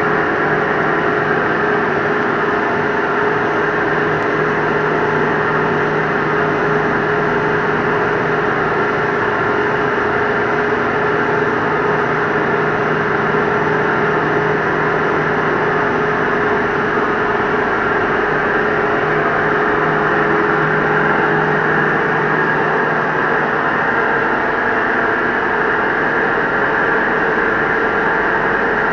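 Metal-turning lathe running, a steady, unbroken machine hum with a constant tone.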